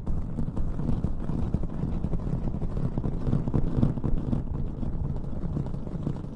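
Close-miked ASMR rustling and rubbing: a dense, irregular scratching and scrunching, heavy in the low end, going on without a break.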